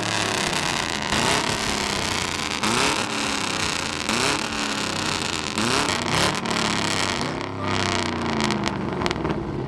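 A car engine revved hard over and over, its pitch sweeping up roughly every one and a half seconds over a loud noisy wash. It has been flogged for minutes without letting up, with some sharp crackles near the end.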